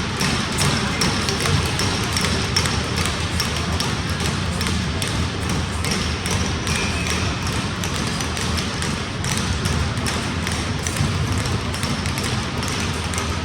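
Ice hockey game on the ice: skates scraping and sticks and puck clattering, frequent sharp clicks and knocks over a steady rink noise.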